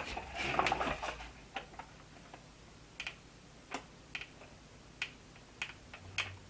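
Hard plastic clicks and taps from handling a figure's display stand and its clip. There is a little rustling in the first second, then about a dozen scattered single clicks.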